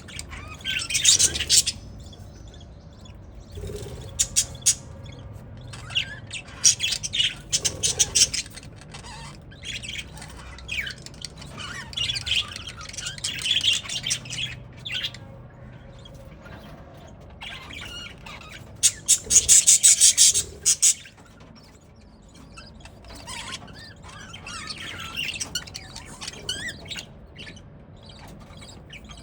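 A flock of budgerigars chirping and chattering in bursts with short pauses between them, the loudest burst about twenty seconds in.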